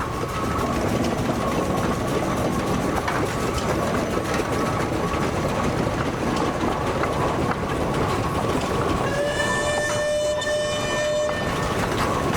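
Steam engines in a parade running past, a steady mechanical rumble and chuffing. About nine seconds in, a steam whistle blows for about two seconds.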